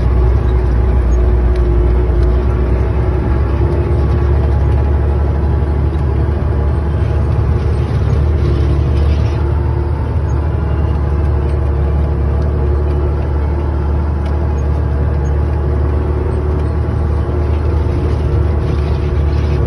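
KamAZ truck's diesel engine running steadily under way, a constant low drone with road noise.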